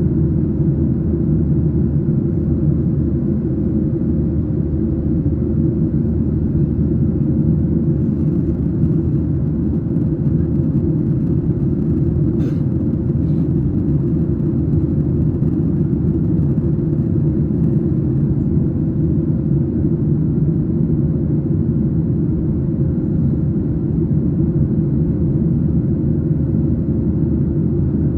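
Boeing 737 jet engines and airflow making a steady low rumble with a faint constant hum, holding at an even level throughout.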